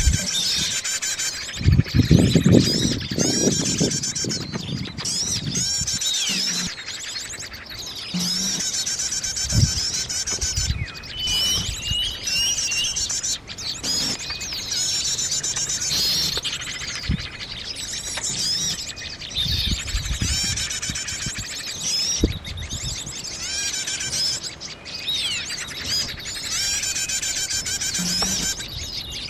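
Birds chirping and calling over and over in high, short repeated phrases, with a low rustle and a few knocks about two to four seconds in.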